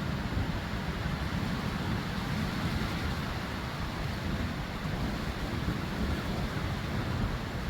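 Strong storm wind blowing steadily, with low rumbling buffeting where gusts hit the microphone.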